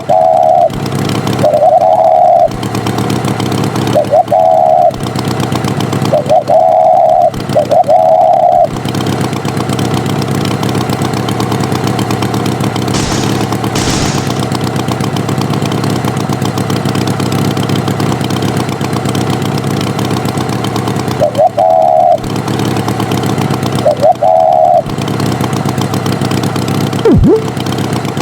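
Cartoon tractor engine running steadily, with short beeps, five near the start and two about three quarters through, and a quick falling sweep near the end.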